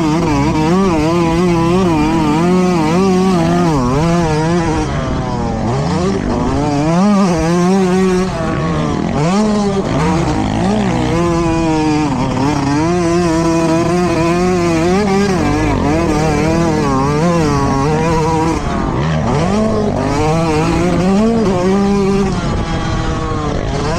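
Motocross dirt bikes racing, several engines at once, revving up and falling back over and over as the throttles open and shut.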